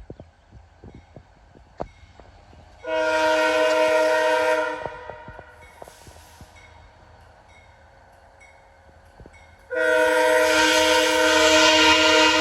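Locomotive air horn sounding a chord in two long blasts: one of about two seconds near the start, and a second longer one beginning late that is still sounding at the end.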